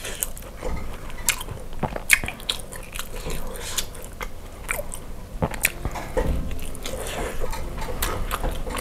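Close-miked biting and chewing of grilled rib meat in sambal, with many irregular short mouth clicks and smacks as the meat is pulled off the bone and chewed.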